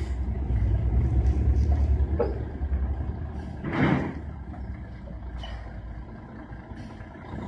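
Scania K113 bus's rear-mounted diesel engine running with a deep, steady rumble that is loudest in the first half, then eases down. About four seconds in there is a short hiss of air.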